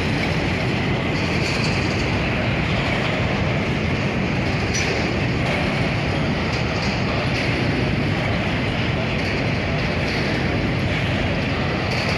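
A freight train's wagons rolling past: a steady rumble of wheels on rail with faint recurring clacks.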